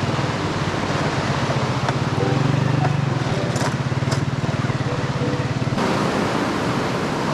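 Honda 125 motorcycle's single-cylinder engine running at low revs with a fast, even beat. About six seconds in it cuts off abruptly to a steady rushing noise.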